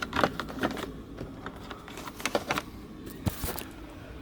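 Plastic dash trim and cable being handled and tucked into place: scattered light clicks and scrapes.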